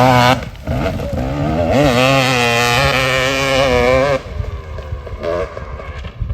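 250 two-stroke dirt bike engine revving hard. It gives a quick rev at the start, then holds high and wavering for about three seconds under throttle, and drops back to a lower note for the last two seconds.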